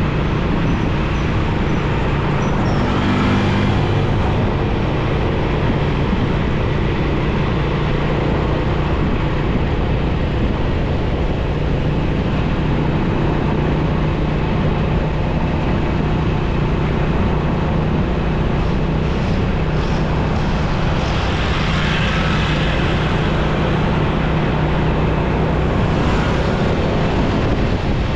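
Motorcycle engine running steadily at riding speed, with road and traffic noise all round. Passing vehicles swell the noise briefly about three seconds in and again around twenty-two seconds.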